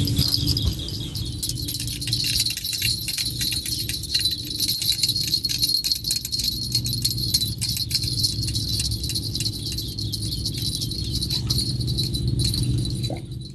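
A small metal bell jingling rapidly and continuously over a low rumble, stopping near the end.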